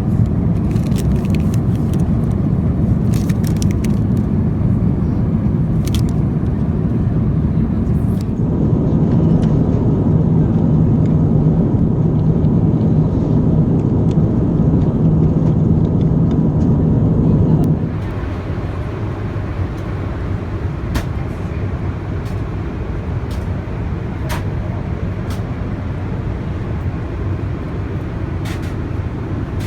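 Steady low rumble of an Airbus A350-900 cabin, with a few faint clicks. It grows a little louder about 8 seconds in, then drops suddenly near 18 seconds to a quieter steady rumble.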